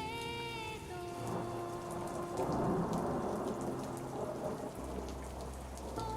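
Steady rain with raindrops pattering, and a rumble of thunder swelling about two and a half seconds in and fading over a second or two. A soft melody of held notes plays under the rain early on and returns near the end.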